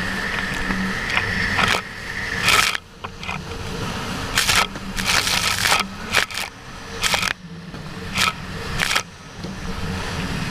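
Jet ski engine running with a steady drone, broken from a few seconds in by repeated sudden rushes of noise from water spray and wind hitting the microphone while riding.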